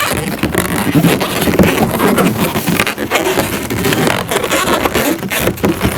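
Inflated latex twisting balloons squeaking and rubbing against each other as a yellow 160 balloon is wrapped and tied around a balloon sculpture's leg, with irregular squeals and small clicks throughout.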